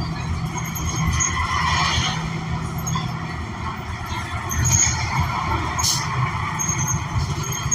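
Cabin sound of a New Flyer XN40 city bus under way: its Cummins Westport ISL G natural-gas engine running with road noise, the engine note changing about three seconds in. A sharp click sounds near six seconds.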